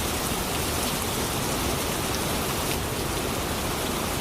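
Athirappilly Falls on the Chalakudy River: a steady, dense rush of falling water.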